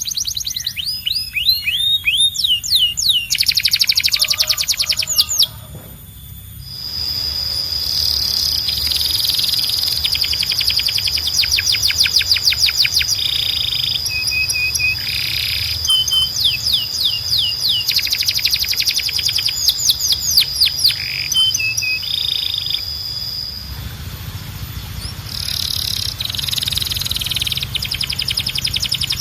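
Domestic canary singing: fast trills of rapidly repeated high notes, switching to a new trill every few seconds, with a long steady high whistle held through much of the middle. The song drops away briefly about six seconds in.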